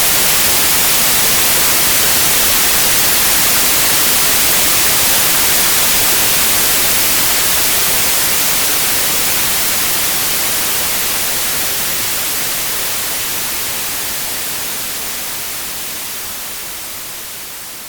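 White noise: a steady, even hiss, brightest in the treble, fading out gradually over the last ten seconds or so.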